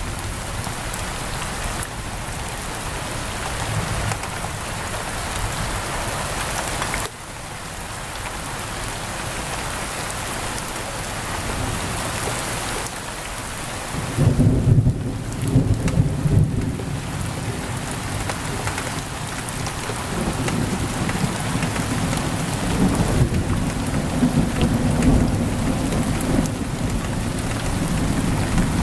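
Heavy rain pouring steadily, with rolling thunder rumbling about halfway through and again later on. The rain drops abruptly in level about a quarter of the way in.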